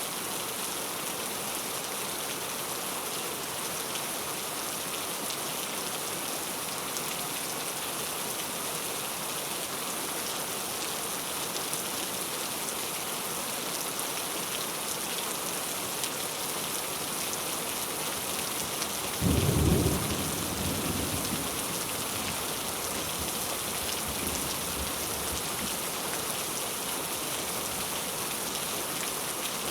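Heavy rain falling steadily. About two thirds of the way through, a sudden loud, deep thunderclap breaks in and rumbles away over a couple of seconds.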